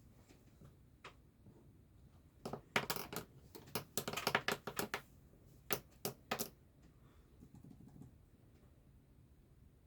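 Cross-stitching handling sounds: an irregular flurry of light clicks and taps that starts a couple of seconds in and lasts about four seconds.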